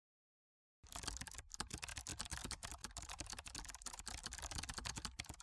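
Fast computer keyboard typing: a dense run of rapid key clicks that starts about a second in after dead silence and stops abruptly.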